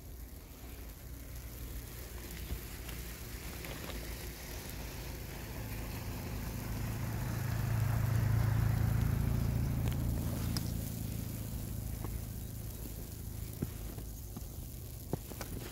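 A car passing by, its low rumble swelling to a peak about halfway through and then fading away.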